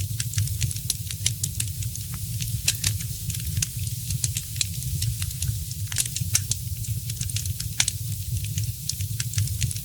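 Wood fire in a fireplace crackling, with frequent irregular sharp pops over a steady low rumble; a couple of louder pops stand out about six and eight seconds in.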